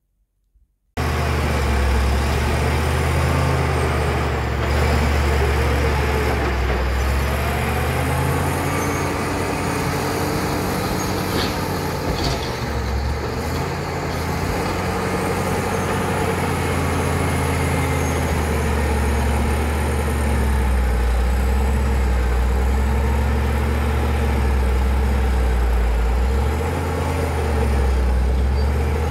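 Caterpillar D7 bulldozer's diesel engine working under load, cutting in abruptly about a second in; its low drone wavers up and down as the load changes, with a thin high whine above it and a brief knock near the middle.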